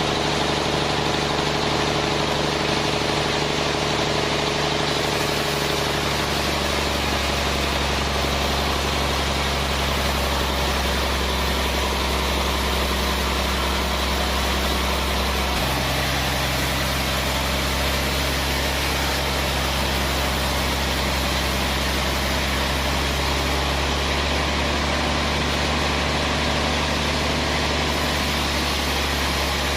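Sawmill machinery running steadily: a low engine hum over a broad machine noise. The pitch shifts about six seconds in and again about fifteen seconds in.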